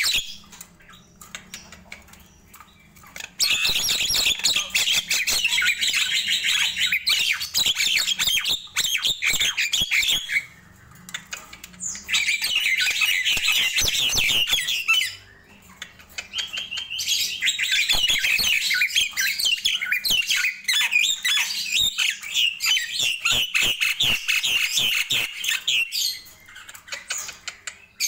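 Nias hill myna calling in long bouts of rapid, dense, high-pitched calls, three main bouts of several seconds each separated by short pauses.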